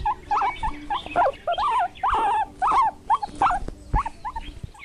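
Guinea pig squeaking: a quick series of short, high, wavering squeals, about two or three a second.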